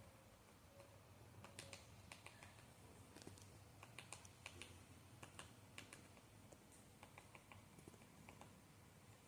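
Faint, irregular crackling clicks and ticks over a quiet background, densest in the middle.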